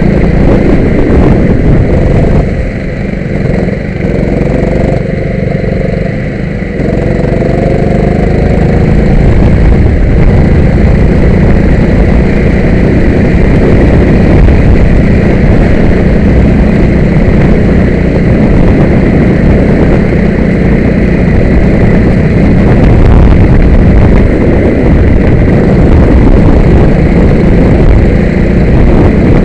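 Go-kart engine running loud and hard, with a heavy low rumble. A few seconds in, its pitch climbs several times as it accelerates.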